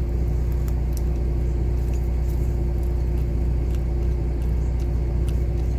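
A steady idling engine drone with a constant low hum, with a few faint light ticks over it.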